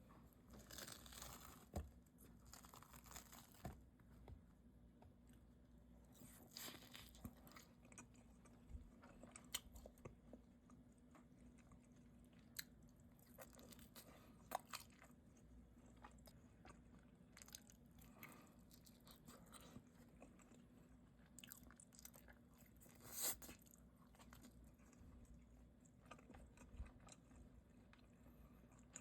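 Close-miked chewing and biting of pizza: quiet, with irregular short mouth clicks and a few louder bites.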